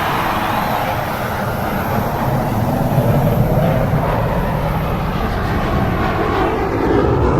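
Airplane engine running with a steady, loud noise that holds unchanged.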